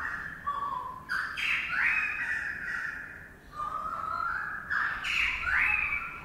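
A bird calling harshly, in two runs of rasping notes that step up and down in pitch; the second run starts about four seconds in.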